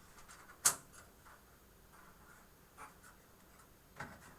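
Small clicks and light scratching of hand work on a computer case fan and its screws, with one sharp click less than a second in and another near the end.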